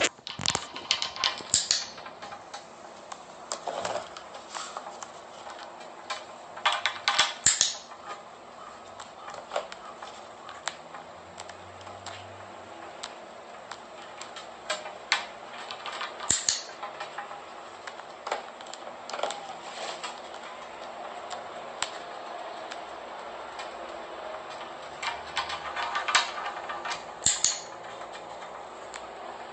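Irregular light clicks and taps, with a few short clusters of louder, rapid tapping.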